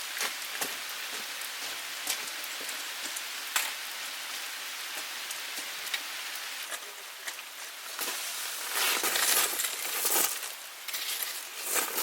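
Steady rain falling, with scattered sharp drops ticking on nearby surfaces; it grows louder for a couple of seconds about three-quarters of the way through.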